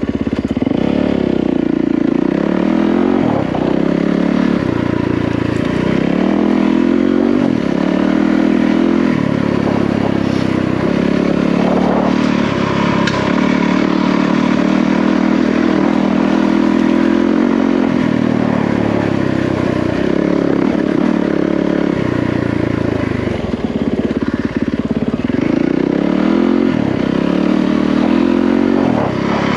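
Yamaha WR450F single-cylinder four-stroke dirt bike engine running under riding load, its pitch rising and falling again and again as the throttle is opened and closed.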